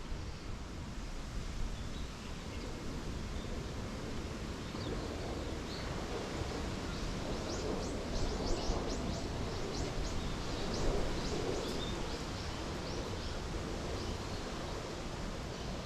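Outdoor ambience of wind rustling through leaves, the rustle swelling through the middle. Partway through, a bird gives a quick run of short, high chirps.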